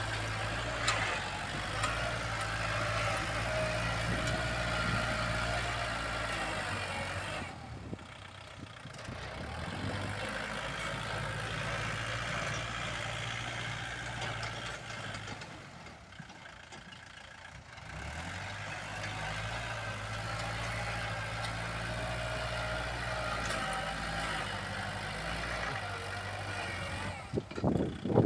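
Kubota L47 tractor loader-backhoe's diesel engine running as it pushes soil, its note falling away twice for a second or two and then picking up again.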